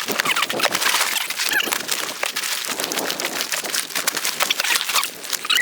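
Dense, irregular crackling and rustling, a rapid run of small clicks and scrapes with little low sound.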